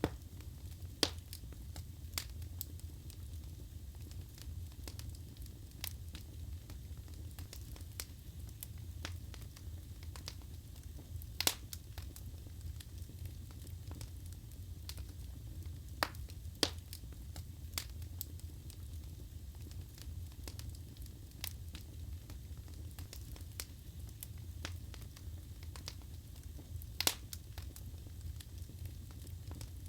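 Wood fire burning in a fireplace: a steady low rumble of the flames with sharp crackles and pops from the logs at irregular intervals, a few of them louder.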